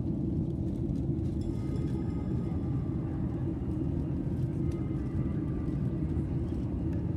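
Steady low rumble of a Boeing 737 airliner heard from inside the passenger cabin: the even roar of engine and air noise.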